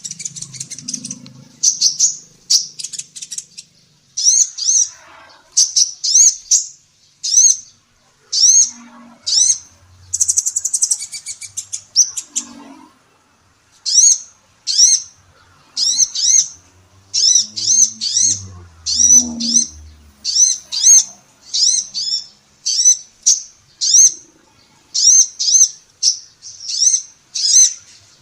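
Female sunbird (kolibri ninja) calling: short, high, sharp chirps repeated over and over, one or two a second, with a brief pause about halfway through.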